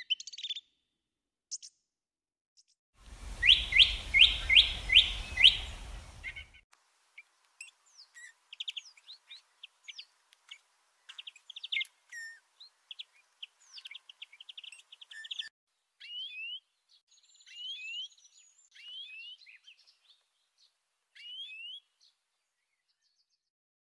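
Songbirds singing: a loud run of about six quick rising chirps over a low rumble, then a longer stretch of fainter, varied chirps, trills and short whistled notes.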